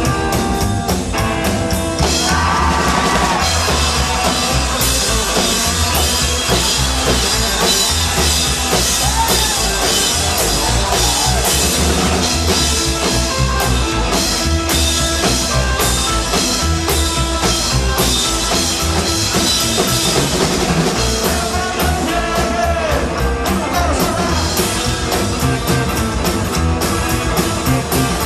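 Rock music played by a band with drum kit and guitar, loud and steady.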